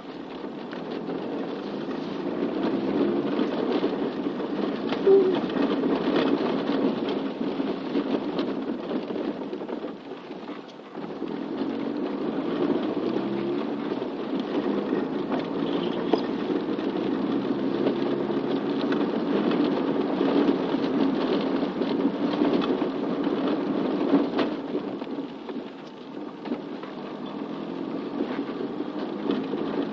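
Rain falling steadily, a continuous patter that eases briefly about ten seconds in and again near the end.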